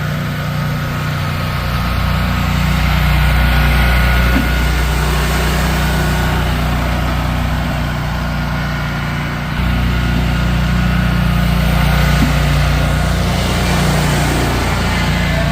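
Truck engine running steadily, getting louder a couple of seconds in and easing off briefly near ten seconds before picking up again.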